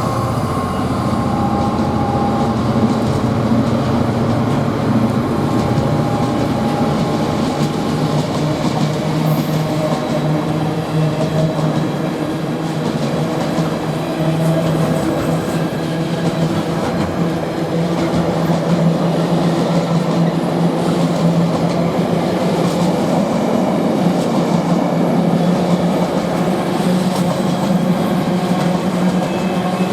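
A GBRf freight train headed by a Class 66 diesel locomotive passes through the station, a loud, steady rolling noise of steel wheels on rail that holds for the whole stretch.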